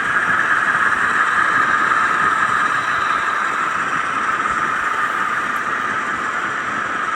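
Model train hauled by ten powered diesel locomotives running along the track, its motors and wheels making a steady noise.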